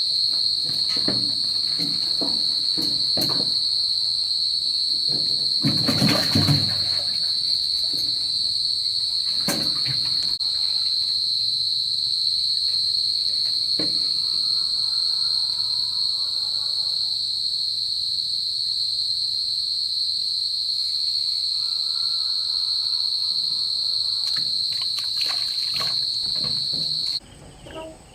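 Steady high-pitched drone of insects calling, one unbroken tone that stops abruptly near the end. Scattered knocks are heard over it, the loudest about six seconds in.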